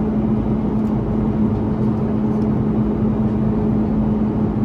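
Airbus A330-300 cabin noise in the climb: a steady rush of air and jet engine noise from the Rolls-Royce Trent 700s, with a constant low hum running under it.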